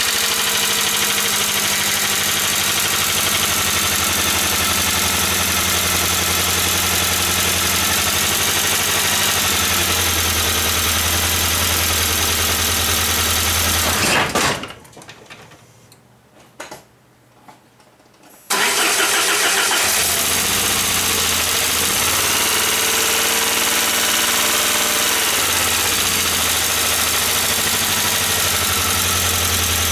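Saab 9000 car engine running steadily at idle. About halfway through it stops, the sound drops away for about four seconds, then the engine runs again.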